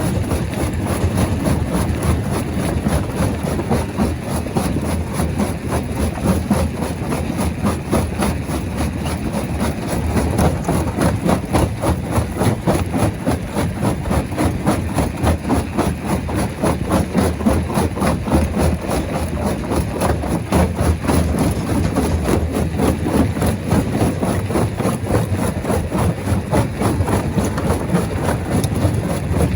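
Heavy rock-crushing machinery running: a steady engine sound with a fast, even pulsing throughout.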